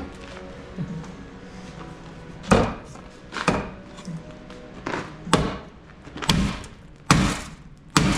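Repeated heavy blows on a damaged Jeep Comanche door, about one a second starting a couple of seconds in, with loose broken window glass rattling around inside the door.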